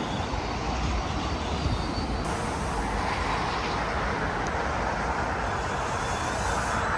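Metro-North M8 electric multiple-unit train arriving at the platform and slowing. A steady rumble of wheels and motors that grows slightly louder as the train draws near.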